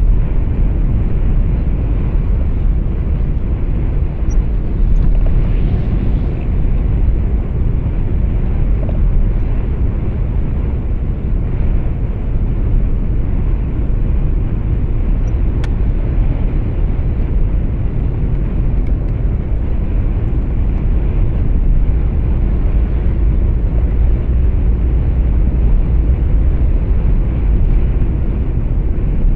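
Steady low rumble of a truck's engine and tyres on the road, heard inside the cab, with no gear changes or other sharp events.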